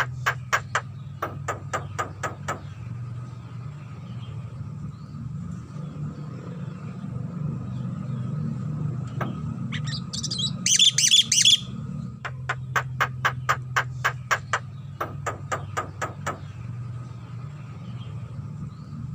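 Javan myna calling: runs of rapid, evenly spaced clicks, about five a second, and about eleven seconds in a short loud burst of high, quick chattering notes. A steady low hum runs underneath.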